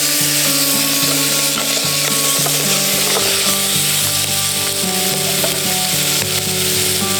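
Food frying and sizzling in a hot pan, a steady hiss, with background music of held notes underneath.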